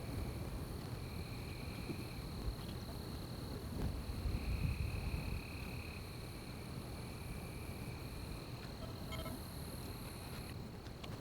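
Night forest ambience of insects: one steady, high-pitched insect drone, with a second, lower trill that starts and stops every second or two, over a low rumble.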